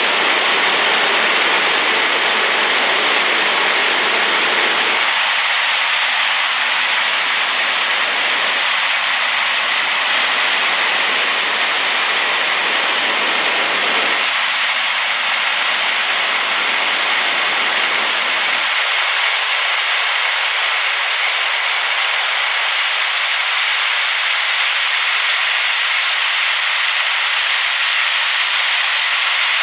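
A waterfall in spate after rain, rushing water making a loud, steady hiss. Its low rumble drops away in steps and is gone by about two-thirds of the way through.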